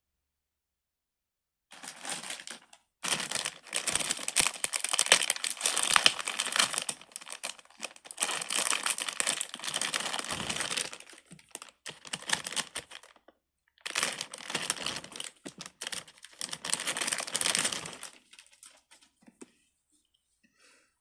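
Crinkling and crumpling of something crinkly being handled, in several long bouts with short breaks between them.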